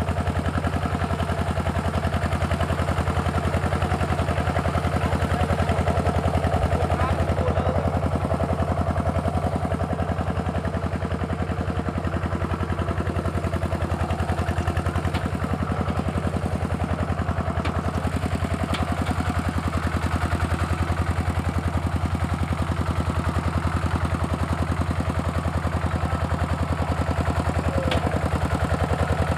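Walking tractor's single-cylinder diesel engine running steadily with a rapid, even firing beat.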